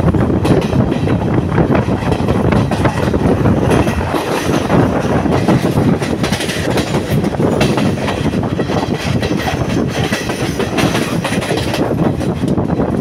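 Sri Lanka Railways diesel multiple unit running at speed, heard from on board: a steady loud rumble with wheels clacking over the rail joints.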